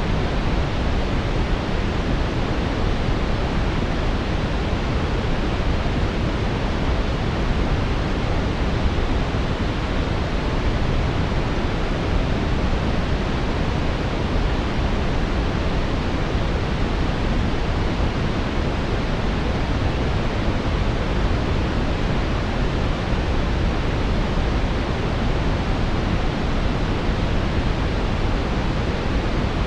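Brown noise: a steady, deep rushing hiss, strongest in the low end and fading toward the highs, with no changes or events.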